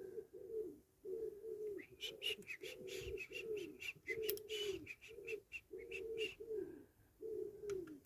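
A pigeon cooing over and over, short low calls that droop at the end, about one or two a second. Between about two and six and a half seconds in, a rapid run of small hard clicks and taps cuts across it.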